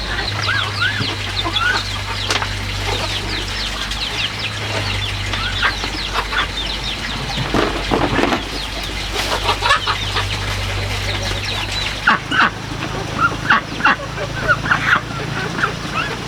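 Chickens clucking with many small peeping calls, some louder calls coming in the second half, over a steady low hum that stops about three-quarters of the way through.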